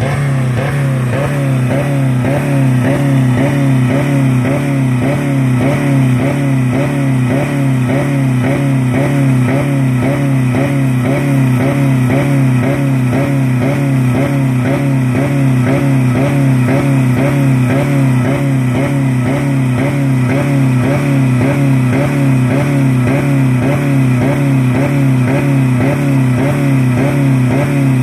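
2000 Dodge Neon four-cylinder engine held flat out against its rev limiter, around 4000 rpm, pulsing evenly about three times a second as the limiter cuts in. It runs with no oil or coolant left in it.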